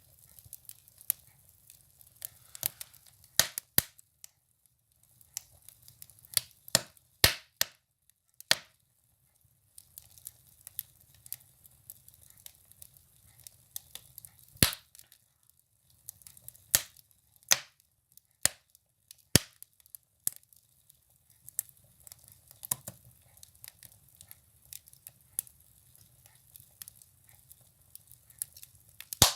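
Firewood burning in a stove, crackling with irregular sharp pops and snaps, a few much louder than the rest, over a faint steady hiss.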